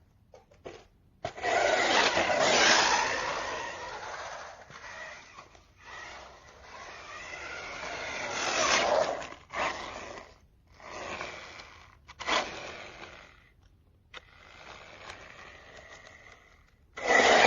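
An Evmore 1:16 4WD brushless RC car being driven in short runs: its tyres scrape over the ground and its motor whines, rising and falling in pitch, in several bursts that start and stop.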